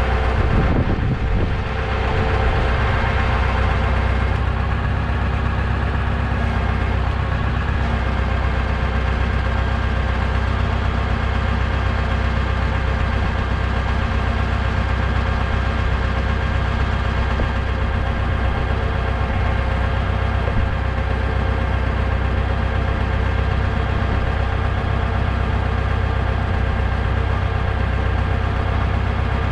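An engine idling steadily: an even, low drone that does not change.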